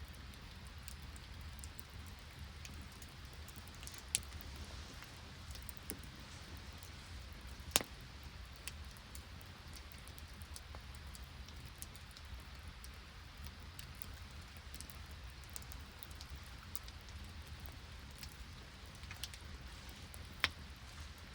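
Steady rain and sleet pattering, with a wood campfire's scattered crackles and three louder sharp pops.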